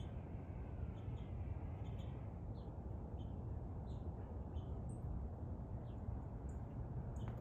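Small birds chirping over a steady low background rumble: short, high-pitched chirps come a few times a second throughout.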